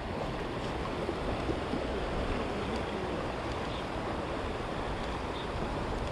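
Rushing water of a fast-flowing creek's rapids: a steady, even rush.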